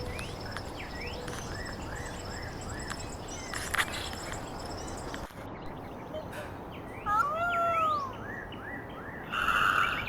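Small birds chirping over and over in short quick notes, with one louder, longer drawn-out animal call about seven seconds in and a brief rougher call near the end.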